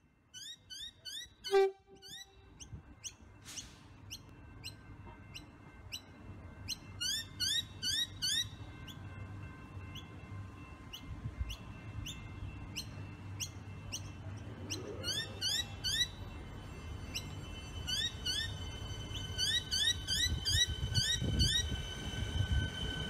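Siemens three-car electric train humming at the platform, then pulling away: its hum grows louder from about halfway through, with a rising whine as it starts off. Birds chirp in repeated bursts of short rising notes throughout, and there is one short loud buzz about a second and a half in.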